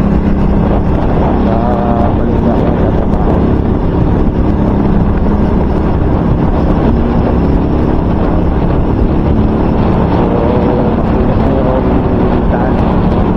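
Heavy wind noise buffeting the microphone, a loud steady low rumble, with a steady hum underneath. The wind noise comes through even though the microphone is wrapped in electrical tape.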